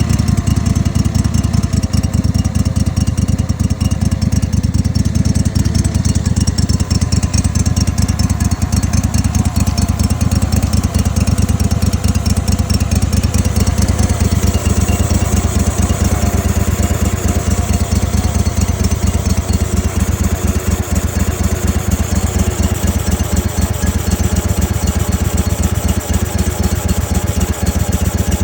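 Kohler 25 hp engine running steadily at idle, only just running after its carburettor was cleaned out with Sea Foam.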